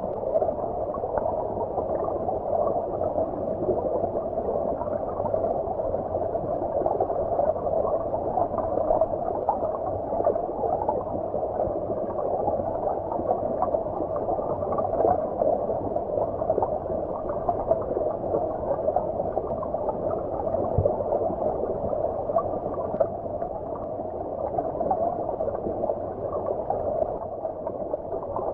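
Shallow stream water heard from underwater: a steady, muffled gurgling rush with no high hiss.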